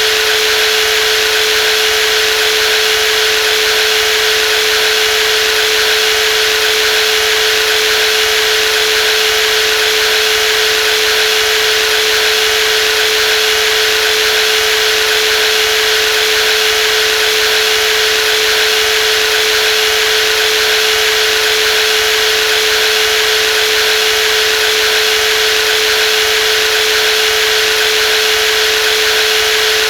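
Brushless jigsaw motor running steadily at constant speed, a continuous high whine with one strong steady tone over a hiss, with no change in pitch or load.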